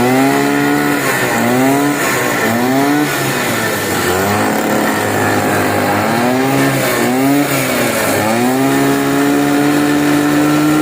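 A small petrol engine revving loudly, its pitch climbing, holding and dropping again over and over.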